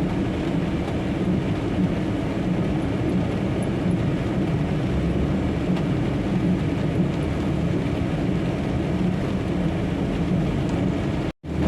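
Steady engine and road noise heard from inside a semi-truck's cab, crawling in heavy traffic. The sound cuts out abruptly for a moment near the end.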